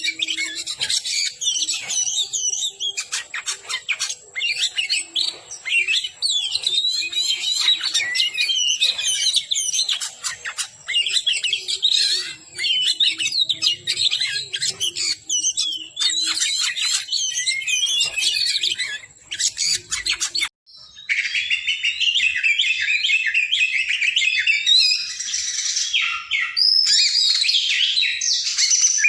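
Oriental magpie-robin (kacer) singing a loud, rapid, varied song of chirps, whistles and trills, with few pauses. About 20 seconds in the song cuts out for a moment and picks up again with a thinner sound.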